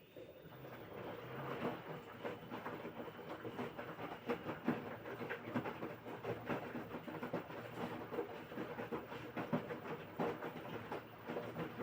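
LG 6.5 kg front-loading washing machine's drum starting up after a pause and turning, tumbling the wash with an uneven churning and knocking that builds over the first couple of seconds.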